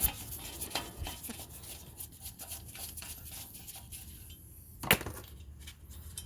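Small metallic clicks and taps of hand tools working the rotor retaining screws on a brake hub, with one sharp knock about five seconds in.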